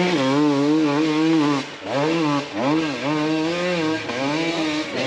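Off-road racing motorcycle engine revving up and down as the throttle is worked hard, with brief drops in revs about two and two and a half seconds in, as on a rough uphill climb.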